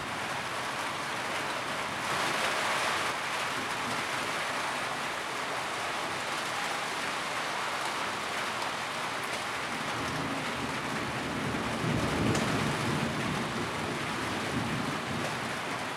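Steady rain drumming on a tin roof. A deeper low rumble swells and fades about ten seconds in.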